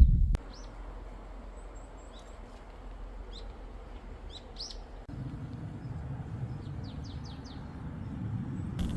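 Small birds chirping now and then, short high notes, over a steady background hiss. A louder low sound cuts off just after the start, and the hiss grows louder about five seconds in.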